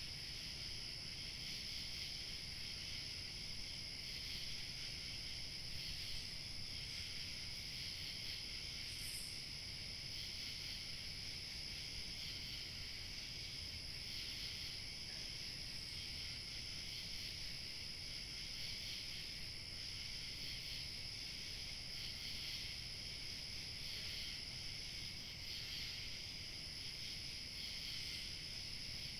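Crickets chirping in a steady, continuous evening chorus at several high pitches, over a low, even rumble of light wind.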